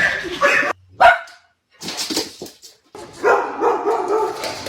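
A dog barking in short calls, then a longer wavering vocal sound in the last second and a half.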